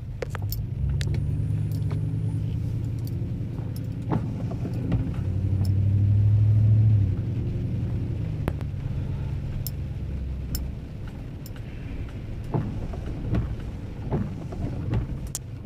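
Vehicle driving on a wet road, heard from inside the cabin: a steady low engine and road drone that swells louder for a couple of seconds around the middle, with scattered faint clicks.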